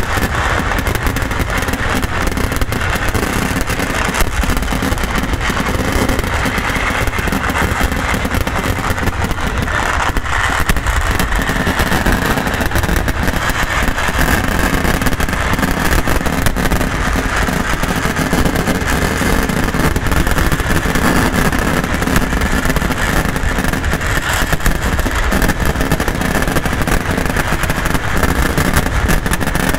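Massed fireworks barrage: countless firecracker blasts and shell bursts fired so close together that they merge into one continuous rumble and crackle, with no break.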